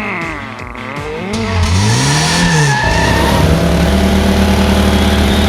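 Vehicle engine sound: a wavering, rising and falling tone early on, then the engine revs and settles into a steady drone at a constant pitch.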